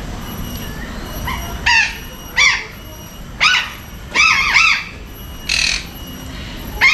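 Parrots squawking: a series of about six short, harsh calls spaced roughly a second apart, one of them a quick double call around the middle.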